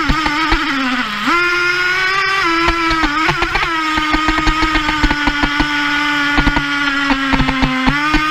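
Traxxas T-Maxx 3.3's small two-stroke nitro engine running at high revs with a buzzing whine; its pitch climbs about a second in, holds high with small wobbles, and dips and rises again near the end. Frequent sharp knocks run through it.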